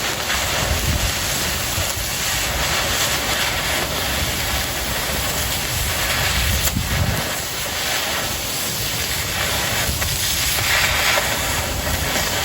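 Oxy-fuel cutting torch hissing steadily as it cuts into 1/4 inch steel plate.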